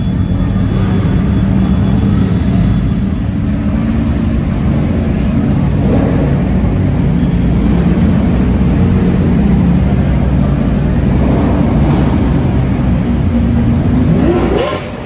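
A car engine running steadily, its pitch rising briefly near the end.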